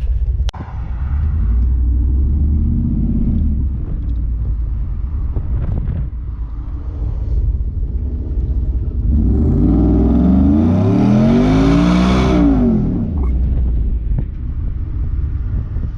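Ford F-150 pickup's V8 engine idling with a heavy low rumble, blipped once lightly early on and then revved hard up and back down about ten seconds in, while waiting at the line for a dig race.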